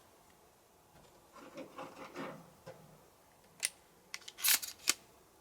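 Shotgun being loaded with slug shells: soft handling noise, then a cluster of sharp metallic clicks near the end as shells are pushed into the magazine.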